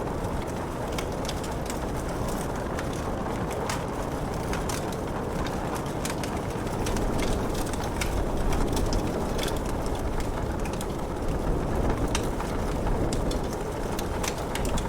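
Wood fire crackling in a fireplace, with frequent sharp pops and snaps over a steady rushing of rain.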